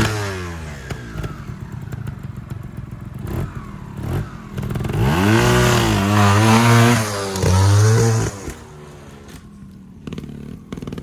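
Trials motorcycle engine: it runs down from a rev right at the start and idles unevenly with some clatter. About five seconds in it is revved hard for about three seconds, the pitch rising and wavering, then drops back to a low idle.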